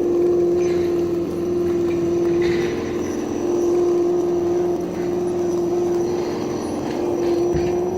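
Simulated V8 engine sound from an ESS Dual sound unit on an RC scale crawler, played through its onboard speaker and holding a steady low engine note.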